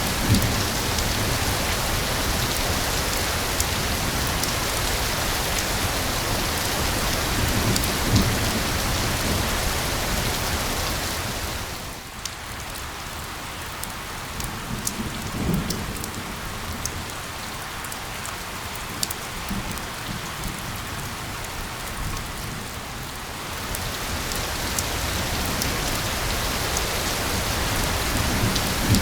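Steady rain falling on a surface, a dense even hiss. About twelve seconds in it eases to a lighter patter with separate drops audible, then grows heavy again near the end.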